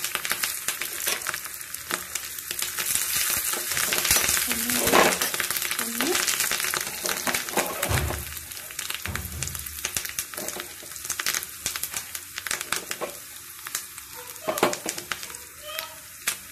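Shallots and fresh curry leaves frying in hot coconut oil, a steady sizzle full of crackles and pops as the leaves splutter, stirred with a slotted spoon. The sizzle is loudest a few seconds in and dies down toward the end.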